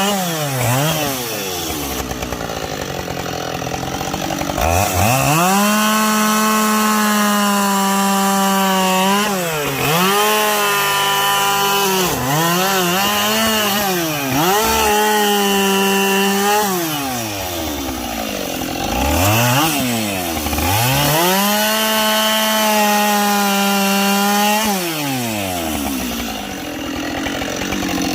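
Gasoline chainsaw bucking logs from a pile: the engine runs at full throttle through each cut and drops toward idle between cuts, revving back up about six times.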